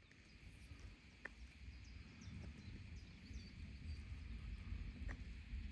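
Faint outdoor ambience: a low, uneven rumble with scattered short bird chirps over it.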